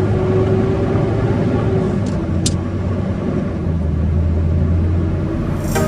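Flatbed tow truck driving while double loaded: a steady low engine and road drone, the engine note dropping slightly about two-thirds of the way through.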